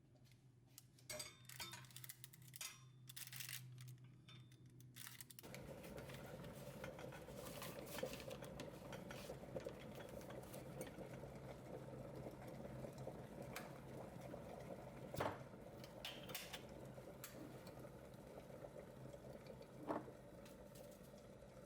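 Kitchen work sounds: dishes and utensils clinking and knocking. About five seconds in, a steady noise starts and runs on, with a few sharper knocks over it.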